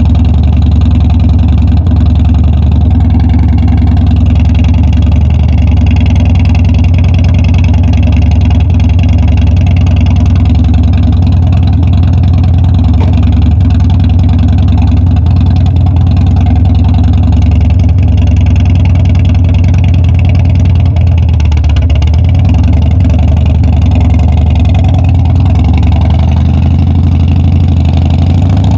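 Harley-Davidson Dyna's V-twin engine running loudly at a steady pitch, with no marked revving.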